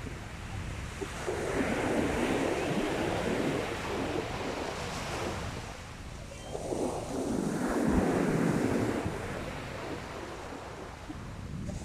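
Sea waves breaking and washing up the beach, two waves swelling in and fading about six seconds apart, over a steady low rumble of wind on the microphone.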